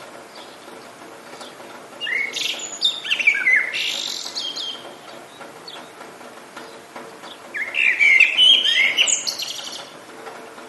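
A songbird sings two quick twittering phrases of sweeping high notes, one about two seconds in and another about five seconds later, over a steady hiss of rain.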